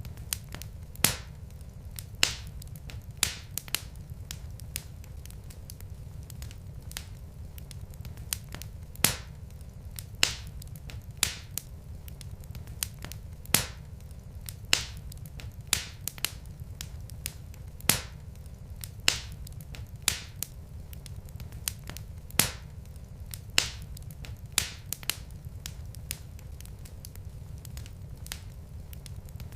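Wood fire burning in a fireplace, crackling with many sharp, irregular pops, about one or two a second, over a low steady rumble.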